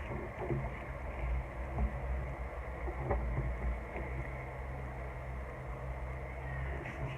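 Steady low rumble with a few faint soft ticks, typical of an album's photocards and photobook pages being handled close to the microphone.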